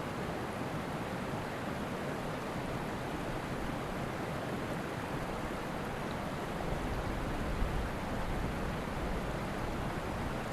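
Steady rushing wind with no pitch to it, buffeting the microphone in a stronger low rumble from about six and a half to nine seconds in.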